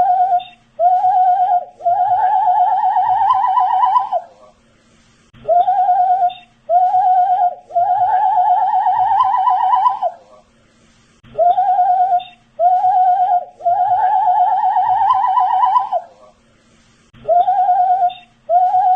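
A man whistling a short phrase on a loop: two short notes, then one long wavering note. The phrase repeats about every six seconds, three times over, and starts a fourth near the end.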